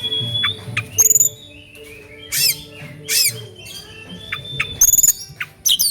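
Oriental magpie-robin (kacer) singing energetically. A long, steady whistle opens the song, followed by a varied run of sharp, sweeping and down-slurred notes mixed with harsh, squawky calls.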